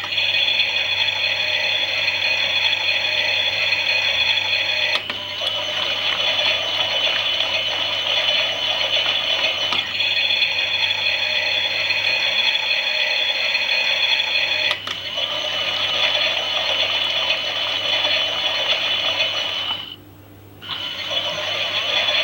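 Toy Klein Miele washing machine's small motor and gears whirring steadily as it runs a wash, with a slight click about every five seconds. It stops for under a second near the end, then starts again.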